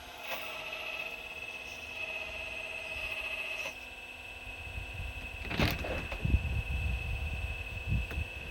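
4200XL excavator working: a steady high whine with a pitched motor whir in the first half that stops a little under four seconds in. From about five and a half seconds, a cluster of knocks, scrapes and low thuds as the bucket works the rocks.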